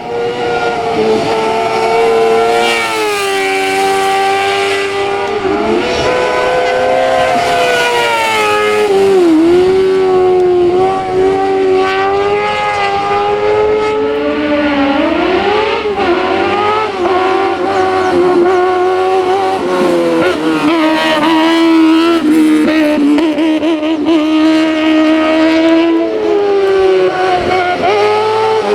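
Racing car engine at full throttle on a hillclimb, its pitch climbing and dropping again and again as it shifts gears and lifts for corners.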